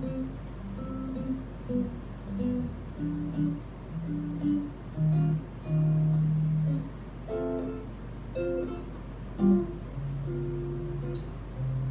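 Guitar playing an unaccompanied-sounding jazz intro of plucked chords and single notes, with low held notes underneath.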